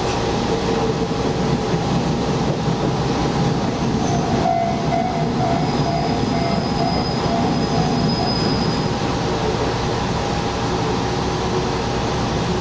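Diesel railcar running along the track, its engine and wheels on the rails giving a steady sound heard from the cab. A thin high squeal rides over it from about four and a half seconds in until about nine seconds in.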